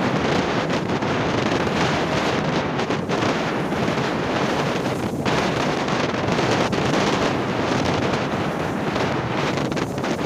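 Strong wind buffeting the microphone over rough sea waves, a loud, steady rushing noise without a break.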